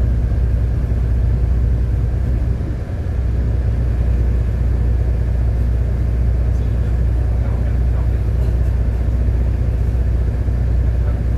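City bus driving, heard from on board: a steady low rumble of engine and road noise, which dips briefly about two and a half seconds in.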